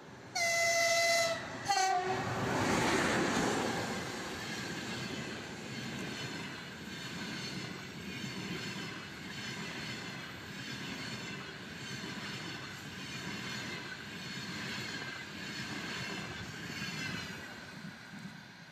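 Locomotive horn sounding one long blast and then a short second one as a passenger train comes through. The locomotive then passes at speed with a loud rush, followed by the steady rolling noise of the coaches going by, which fades near the end.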